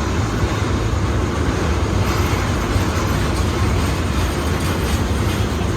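KTM Kargo freight train rolling past on metre-gauge track, a steady heavy rumble of wheels on rails.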